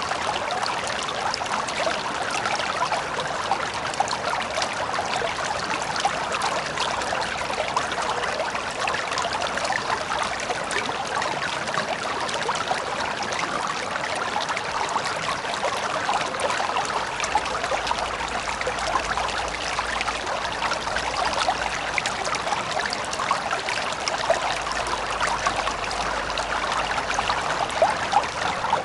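River water flowing steadily, a continuous rushing and babbling with many small splashes and gurgles.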